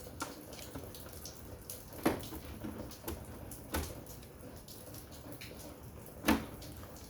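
Plastic housing of a wall-mounted air conditioner being handled while it is taken apart: a few sharp clicks and knocks, the loudest about two seconds in and again near the end, with smaller ticks between.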